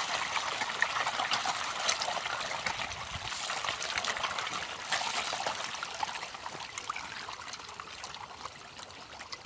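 Water trickling and splashing in a fish pond: a steady patter of many small splashes that slowly grows fainter.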